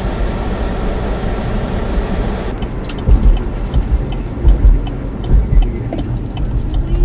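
A Chevy Spark pushing through deep snow and getting stuck: a steady rush of engine and tyre noise that drops off suddenly about two and a half seconds in. Low thumps and a few light clicks follow.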